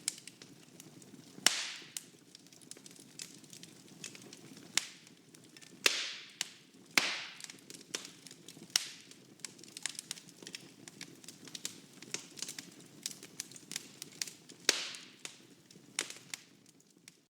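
Fire in a fireplace crackling, with a steady low rumble of flames under frequent sharp pops. A few of the pops are loud and trail off with a brief hiss.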